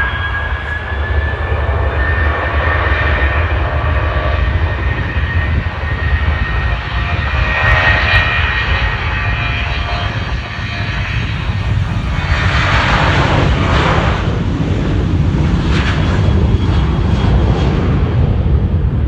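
Boeing 737-800's CFM56 turbofan engines at takeoff thrust: a steady high fan whine over a deep rumble. A broader roar swells about two-thirds of the way through.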